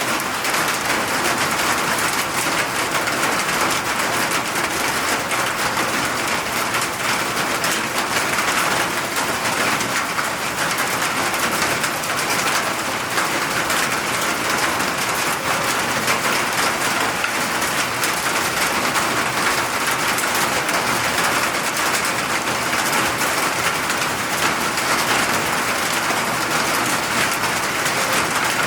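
Steady rain falling and pattering on surfaces, a dense, even hiss with fine crackle of drops.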